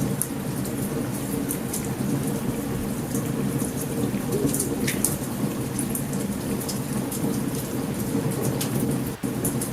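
Steady heavy rain with a low rolling thunder rumble, and scattered sharp crackles and pops of a campfire. The sound drops out for a split second near the end.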